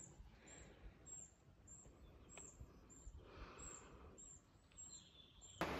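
Near-quiet outdoor ambience with a faint, high, thin bird chirp repeated evenly about two to three times a second. Just before the end, a sudden steady rush of noise, like flowing river water, cuts in.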